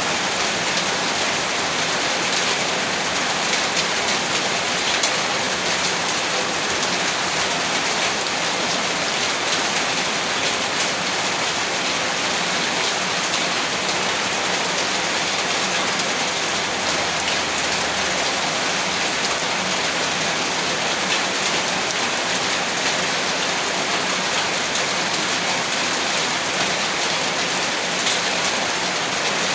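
Heavy rain falling steadily, a dense even hiss of countless drops hitting surfaces, with no breaks or swells.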